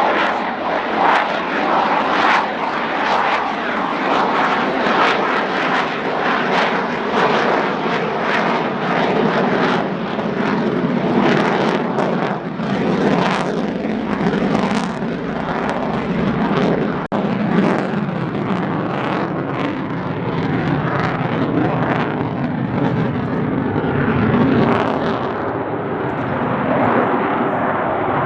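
Jet aircraft flying a display, its engine noise a loud, rough rushing roar that swells and eases throughout, with a brief dip about two-thirds of the way through.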